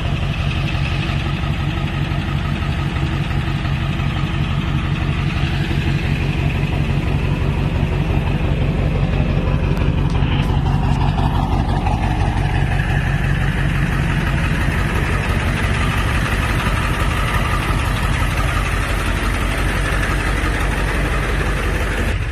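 Ford 7.3-liter Powerstroke turbo-diesel V8 idling steadily with its even diesel clatter, swelling slightly in the middle; the engine sounds healthy.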